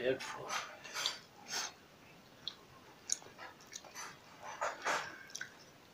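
Close-up eating sounds of pork ribs eaten by hand: wet chewing and lip smacks in short irregular clicks, with a quieter stretch about two seconds in.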